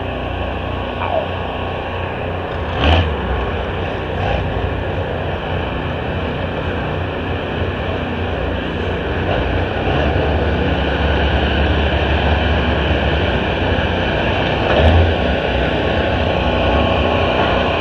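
Steady mechanical running noise of engines and machinery in a demolition derby pit area, with a deep rumble that grows louder about halfway through and a couple of brief bumps.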